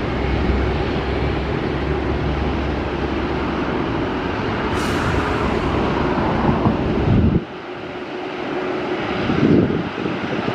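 Jet engines of a taxiing Boeing 787-9 running with a steady rumble and hiss. The low rumble cuts off suddenly about seven seconds in, leaving a thinner whooshing noise.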